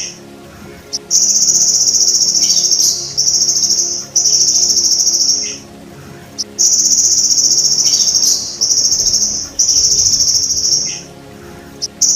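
Golden grasshopper ('belalang emas') buzzing in high-pitched rattling trills, in bursts of one to two seconds with short pauses between them, about six times.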